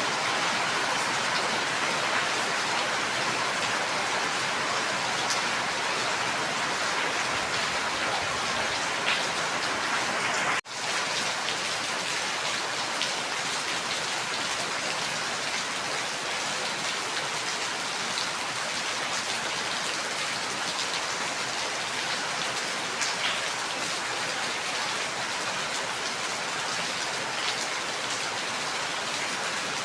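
Steady heavy rain: a dense, even hiss of falling drops with faint individual drop ticks, broken by a brief dropout about ten seconds in.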